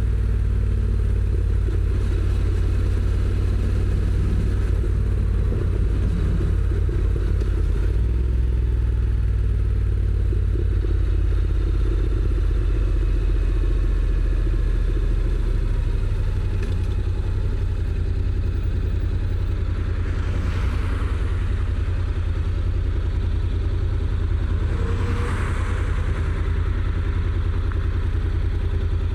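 Honda NC750X's 745 cc parallel-twin running under way on the stock exhaust, settling a little lower and quieter partway through. Twice in the last third a brief rushing sound rises over it.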